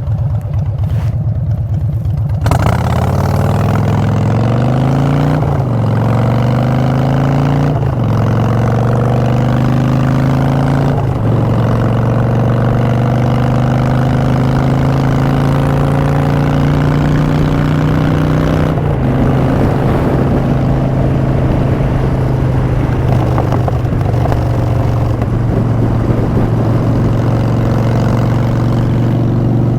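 Harley-Davidson Street Bob V-twin through Vance & Hines Short Shots exhaust: after a couple of seconds at a low steady note it accelerates hard, the pitch climbing and dropping back at several upshifts, then settles into a steady cruise for the last ten seconds or so.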